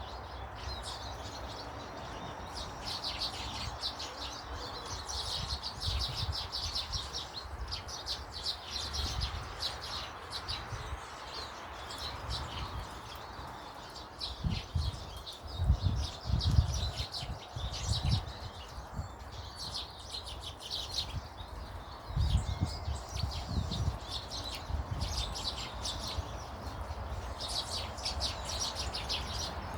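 Small garden birds chirping in fast runs of short notes, on and off, with low rumbles twice, about halfway through and again a little later.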